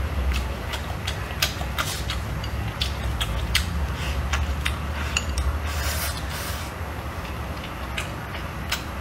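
Close-up chewing and mouth smacking of a person eating a mouthful of stir-fry, many short irregular clicks, over a steady low hum.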